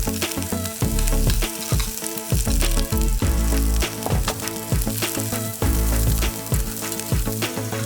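Food sizzling and frying in a hot pan, a dense crackling hiss, over background music with a steady bass pulse.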